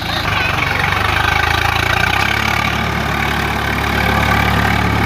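Swaraj 744 FE tractor's diesel engine running steadily, its low note shifting a little about two seconds in.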